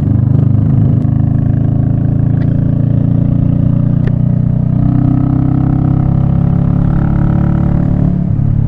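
Royal Enfield Meteor 350's single-cylinder motorcycle engine pulling away from a junction and then running steadily under way. There is a brief dip near the end.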